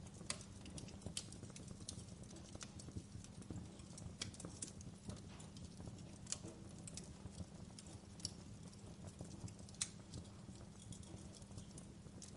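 Wood fire burning in a fireplace: irregular sharp crackles and pops over a low steady rumble of the flames, the loudest snaps a little after the start, about six seconds in and near ten seconds.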